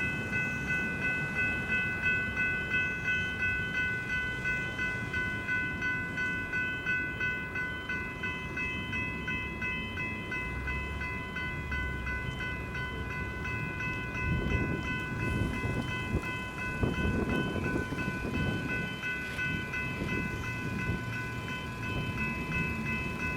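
Level crossing electronic bells (General Signals e-bells) ringing, a steady repeating tone that pulses about twice a second. A train rumbles and clatters over the crossing past the middle.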